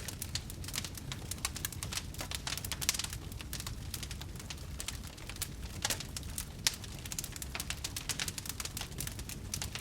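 Wood fire burning in a fireplace, crackling with dense, irregular pops and snaps over a low steady rumble of the flames.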